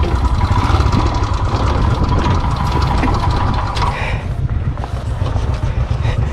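Royal Enfield motorcycle's single-cylinder engine running steadily at low speed while riding a rough, rocky off-road track.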